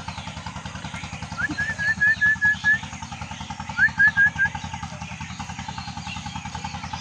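A bird calling in two quick strings of short, high, upward-flicking notes, about seven in the first and four in the second, over the steady low throb of an idling engine.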